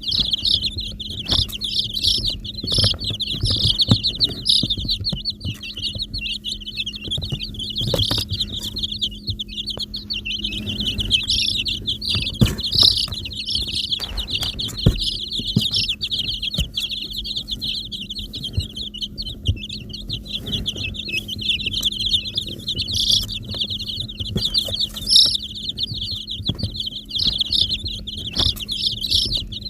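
A crowd of baby chicks peeping continuously in a dense, high-pitched chorus, with scattered light knocks and a faint steady low hum underneath.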